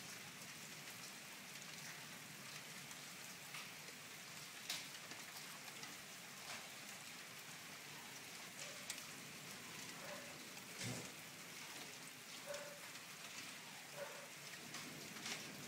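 Faint steady rain, with scattered drops ticking on a hard surface close by.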